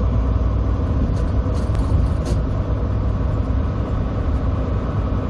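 Semi truck's diesel engine running steadily as the truck drives slowly, a constant low rumble with a steady hum. A few faint clicks come between about one and two and a half seconds in.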